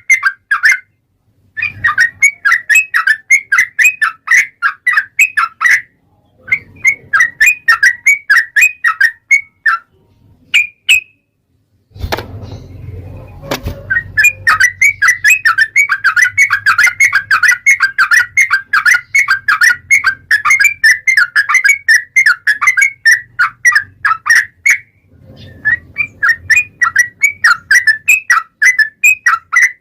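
Yellow-vented bulbul (trucukan) singing its long, rapid chattering song in bouts of quick repeated notes, about five a second, broken by short pauses. A brief low rumble comes about twelve seconds in.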